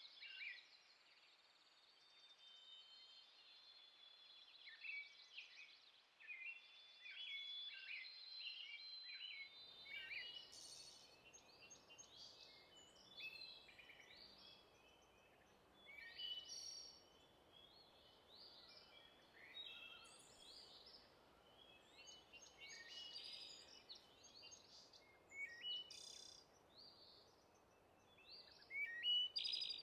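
Several songbirds chirping and singing in quick, overlapping short calls and trills. A faint steady hiss of background noise comes in about ten seconds in.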